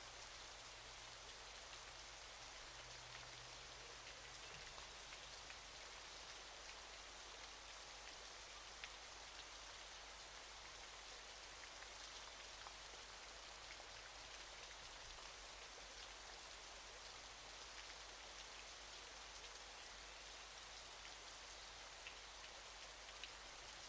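Waterfall: a faint, steady hiss of falling water, with a fine patter of droplets.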